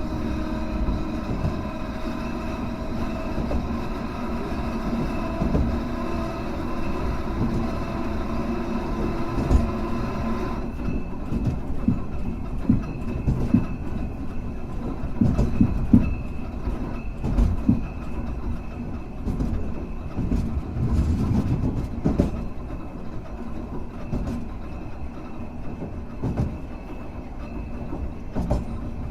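Hankai Tramway car 351 running on the tracks, heard from inside the car. A steady hum made of several tones stops abruptly about ten seconds in. After that come irregular knocks from the wheels on the rails.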